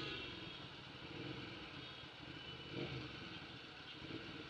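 Hyosung GT650R's V-twin engine idling faintly in stop-and-go city traffic, under a steady wash of surrounding traffic noise.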